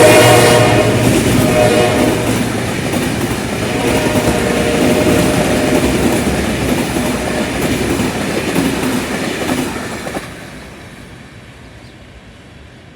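A General Electric diesel locomotive's horn cuts off about half a second in, then the train runs past with a steady rumble and wheels clattering over rail joints. The sound fades away over the last few seconds.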